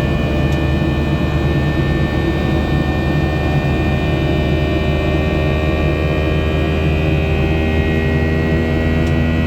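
Boeing 737-700 cabin noise during climb: the steady drone of its CFM56-7B turbofan engines and airflow over the fuselage, laced with several steady whining tones. A few of the higher tones edge up slightly in pitch near the end.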